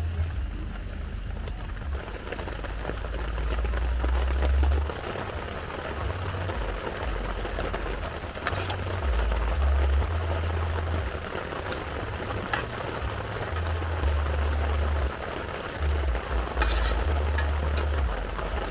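Steady rain falling, heard as an even hiss, with a low rumble underneath that comes and goes and a few sharp clicks or knocks scattered through.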